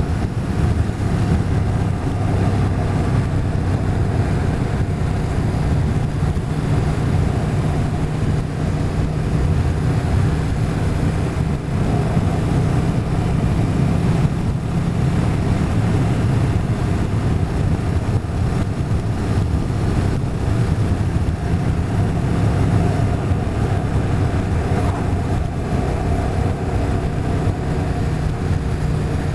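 Motorcycle engine running steadily while riding at an even speed, with wind noise over it.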